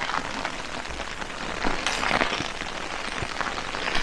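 Steady rain falling on a tent roof, an even hiss of drops that swells briefly about two seconds in.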